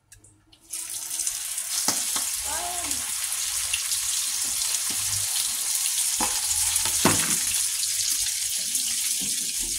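Egg-battered spinach patty sizzling in hot oil in a nonstick frying pan, a steady hiss that starts suddenly about a second in.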